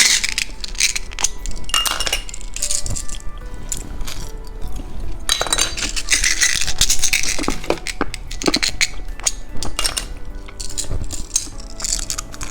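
Plastic candy packaging being handled: repeated sharp clicks and clinks with bursts of crinkling, over light background music.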